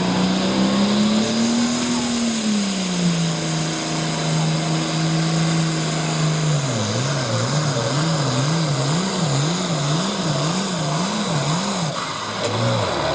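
Hot-farm-class pulling tractor's engine under full load pulling the sled. Its note rises and settles, holds steady, then from about halfway surges up and down about twice a second, the tractor hopping and losing traction, before dropping off near the end.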